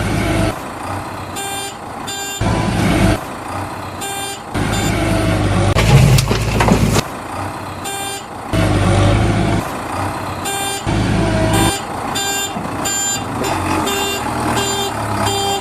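Truck engine running, with a reversing beeper sounding in short beeps on and off. The rumble starts and stops abruptly several times.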